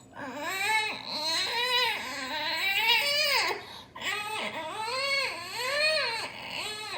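A child imitating a baby crying: a run of high wailing cries that rise and fall in pitch, with a brief pause about four seconds in.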